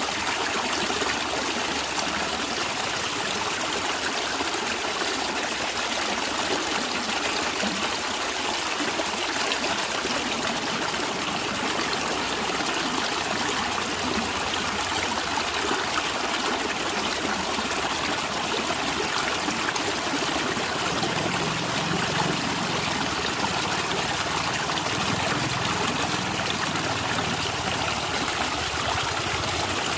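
Natural stream water running and gurgling over stones, a steady unbroken trickle and burble, with a little more low gurgle in the second half.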